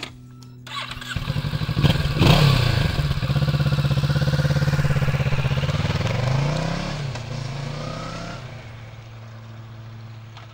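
Kawasaki Z650's parallel-twin engine accelerating hard: it revs up about two seconds in, holds a steady note, swings in pitch as the bike passes close, then fades into the distance.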